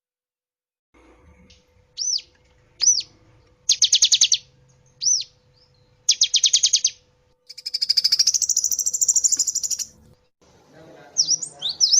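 Gelatik batu (cinereous tit) song starting about a second in: single high notes that arch up and fall, alternating with short rapid trills and one long buzzy trill. Near the end the song changes to a quick run of sharp, jumping chirps.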